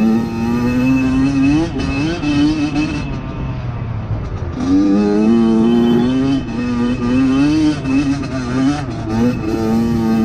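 Kawasaki KX100 two-stroke single-cylinder dirt bike engine being ridden hard, its pitch climbing under throttle and dropping back over and over. It eases off about two seconds in and comes back on strongly about five seconds in. The engine is freshly rebuilt and runs well.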